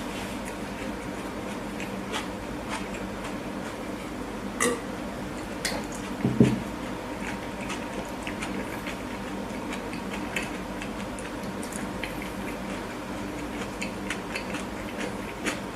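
Close-miked chewing of a burger: scattered small wet mouth clicks and squishes, with one louder thump about six seconds in, over a steady faint hum.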